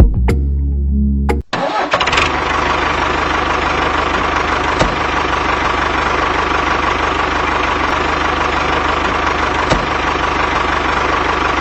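A low steady hum gives way suddenly, about a second and a half in, to an engine running evenly at a constant speed, with a fast low chugging rhythm underneath.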